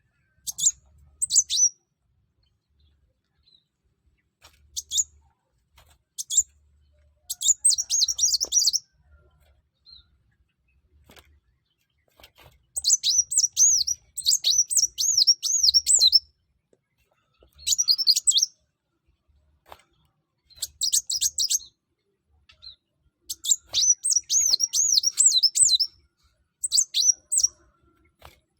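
Kolibri wulung sunbird singing in full, vigorous song: repeated bursts of fast, high twittering, with the longest runs about 13 and 24 seconds in.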